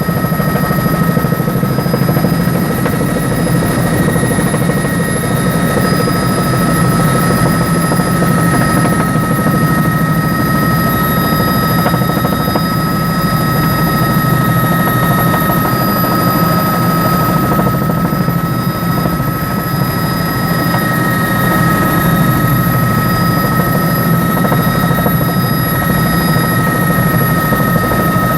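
Helicopter running steadily, a loud low rumble from engine and rotor with a steady high whine held over it.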